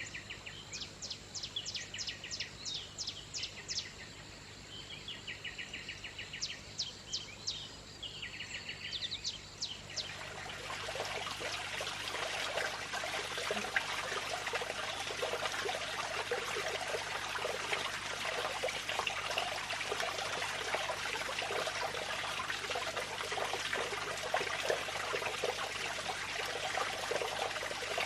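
A small bird calling in quick runs of sharp, high chirps and short trills. About ten seconds in, the sound of running water takes over: a steady splashing trickle.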